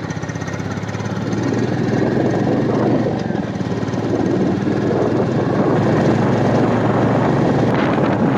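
Royal Enfield Meteor 350's single-cylinder engine running while riding, getting louder about a second in as rushing wind builds on the microphone.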